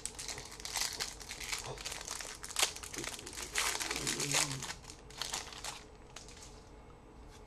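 Trading-card pack wrapper being torn open and crinkled in the hands, a dense crackling for about six seconds that then fades away.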